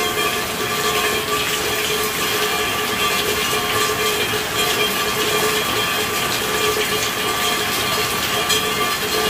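Steady rain falling as a dense, even patter, with a faint steady hum under it.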